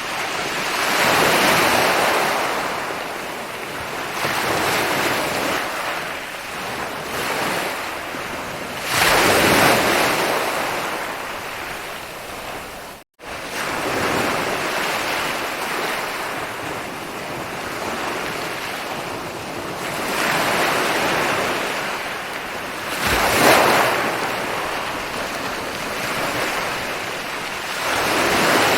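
Ocean waves rolling in and breaking on a beach: a steady wash of surf that swells and falls every few seconds, with the sharpest surges about 9 and 23 seconds in. The sound cuts out completely for an instant about 13 seconds in.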